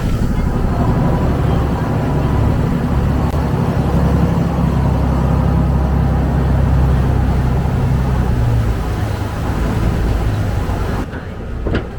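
Public passenger boat's engine running with a loud, steady low drone, easing off about nine seconds in and dropping sharply in level near the end.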